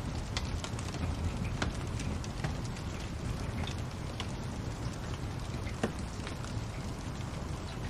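Wood fire crackling, with scattered sharp pops over a low steady rumble; one sharper pop about six seconds in.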